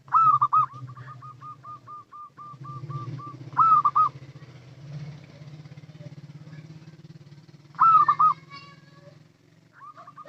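Zebra dove cooing: a loud hooked coo followed by a quick run of about a dozen short, even coos. More loud coo phrases come about three and a half seconds in and again near the end, over a steady low hum.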